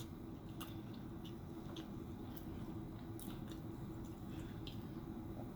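Quiet chewing with a few soft, scattered mouth clicks, over a faint steady hum.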